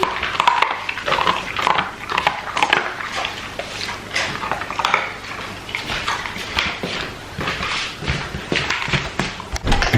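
Pet dog whining in many short, repeated cries.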